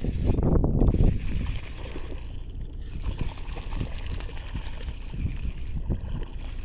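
Water sloshing and gurgling against a kayak hull, with a loud low rumble on the microphone in the first second.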